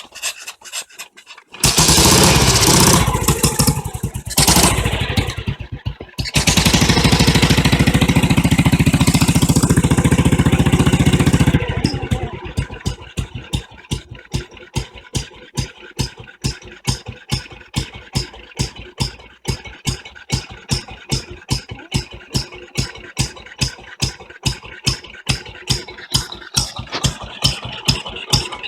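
1937 BSA M20's side-valve single-cylinder engine running loudly with the revs changing for about ten seconds, then dropping to a slow idle. At idle each firing stroke is heard as a separate beat, about two and a half a second.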